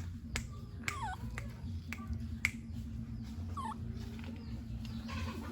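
Baby monkey giving a few short high squeaks that bend down in pitch, about a second in and again near four seconds, amid scattered sharp clicks and taps.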